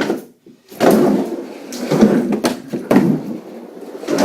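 Skateboard on new wheels and bearings rolling back and forth on a ramp: a rolling rumble broken by several sharp knocks and thuds as the board meets the ramp, with a short silent gap just after the start.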